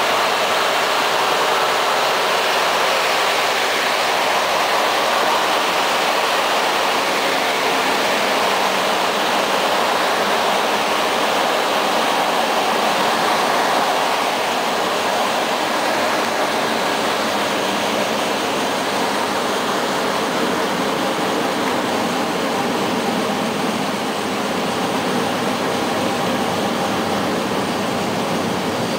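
Passenger train in motion: a steady rushing noise of wheels on rail and air, easing slightly about halfway through and again near the end.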